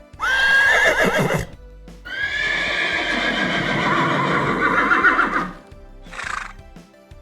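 Horse whinnying: a call that rises and then wavers, a longer wavering whinny about two seconds in, and a short call near the end, over soft background music.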